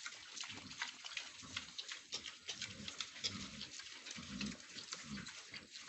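Pigs eating madre de agua leaves: a dense, irregular run of crunching and smacking chews.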